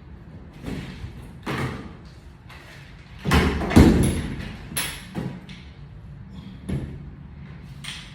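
Knocks and thuds of equipment being handled and set down, a handful of separate knocks with the loudest cluster about three to four seconds in.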